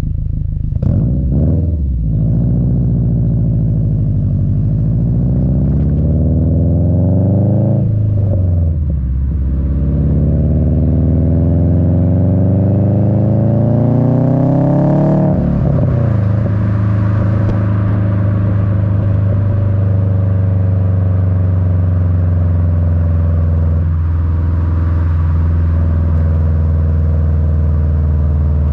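Subaru WRX's turbocharged EJ255 flat-four rumbling through an Invidia N1 cat-back exhaust, heard at the rear bumper. It pulls up through two gears with a pitch drop at each upshift, about eight and fifteen seconds in, then settles into a steady cruise.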